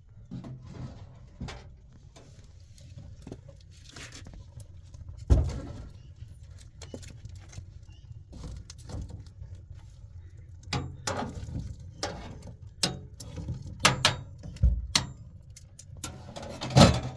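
Irregular clicks, taps and knocks of objects being handled, the loudest about five seconds in and near the end, over a steady low rumble.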